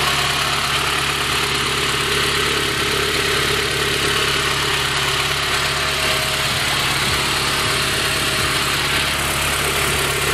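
Honda H22 DOHC VTEC four-cylinder idling steadily, breathing through a four-into-one header and a 3-inch mandrel-bent exhaust with resonator and muffler; a pretty quiet, healthy-sounding idle.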